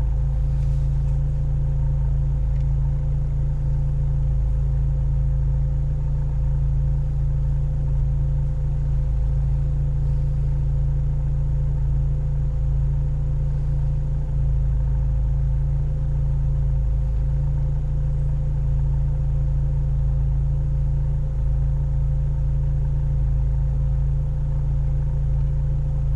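A four-wheel-drive vehicle's engine idling, a steady low drone that does not change in speed.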